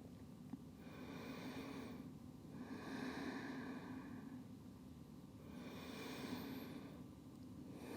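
A person breathing slowly and audibly while resting in a held yoga pose: three long breaths in about eight seconds. A faint steady low hum sits underneath.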